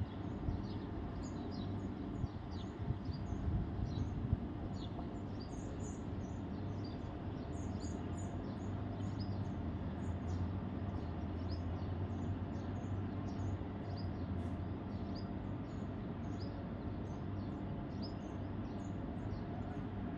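Small birds chirping: many short, high calls repeating over and over, over a steady low rumble.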